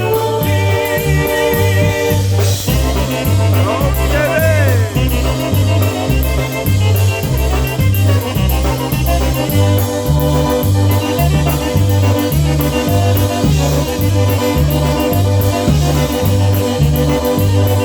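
Live polka band playing, with a steady oom-pah bass line alternating notes on the beat under sustained chords. A quick run of notes comes in about four seconds in.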